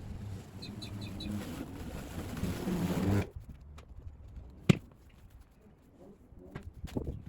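Battery lawn mower running with a low electric hum and cutting noise, stopping abruptly about three seconds in; then a few clicks and one sharp knock. A bird chirps a quick run of about five notes about a second in.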